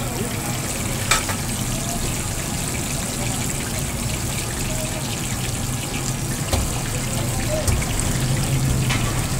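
Chapli kababs frying in fat on a large flat steel pan, a steady sizzle with a low hum underneath. A few sharp metallic clicks of a steel spatula against the pan, the loudest about a second in.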